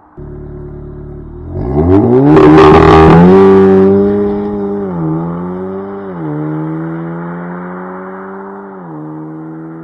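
Audi S3 8V's turbocharged 2.0-litre four-cylinder launching: after a short steady run the revs climb sharply and loud about a second and a half in, then the car pulls away, the engine note dipping briefly three times as it shifts up.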